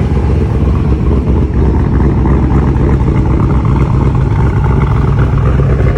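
383 stroker V8 idling through a GMMG cat-back exhaust, heard at the tailpipes: a steady, loud, deep rumble.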